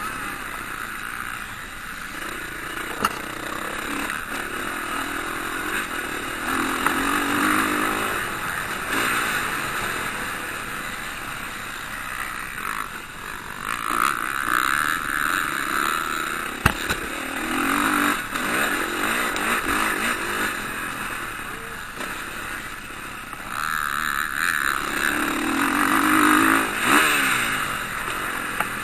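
Motocross bikes racing round the track, engines revving up and easing off as riders come by, loudest in several swells. There is a sharp knock about seventeen seconds in.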